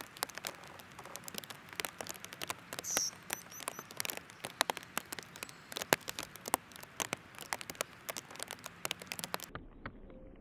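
Dense, irregular clicking and tapping of birds pecking at seed, with a short high bird chirp about three seconds in. About nine seconds in, the sound turns duller.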